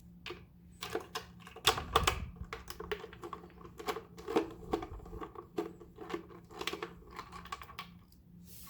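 A screwdriver backing a screw out of the plastic base of a PureGuardian ultrasonic humidifier, making a run of small irregular clicks and scrapes.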